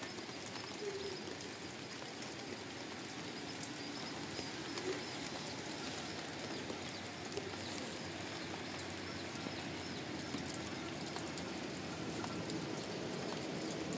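Birds calling, with low cooing calls and some higher chirps, over a steady hiss.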